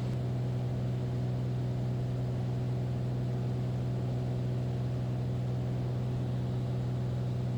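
Steady drone of a Beechcraft Bonanza's single piston engine and propeller, heard from inside the cockpit as an even low hum with a layer of hiss.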